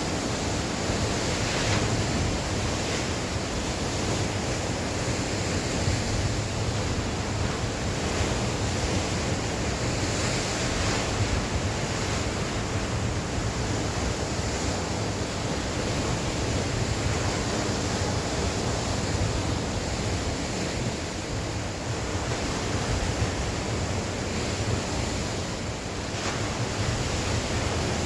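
Sea waves washing onto the shore in a constant wash of surf, with strong wind and wind buffeting on the microphone.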